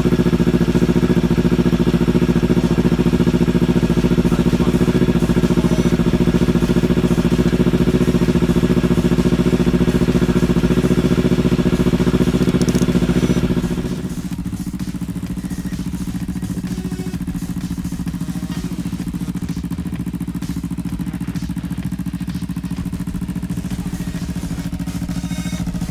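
Motorcycle engine running steadily during a ride. About halfway through, the sound drops to a quieter, duller level and stays there.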